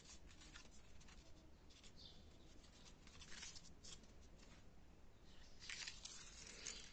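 Faint rustling and crinkling of folded paper origami units being handled and pushed together, with a couple of louder bursts in the middle and near the end.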